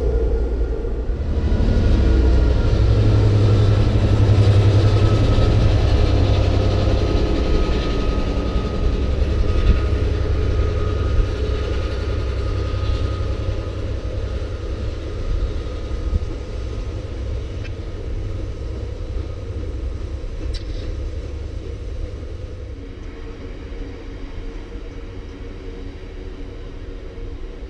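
Freight train of covered box wagons rolling past with a heavy low rumble, loudest in the first few seconds and then slowly fading, with a couple of sharp knocks from the wagons partway through.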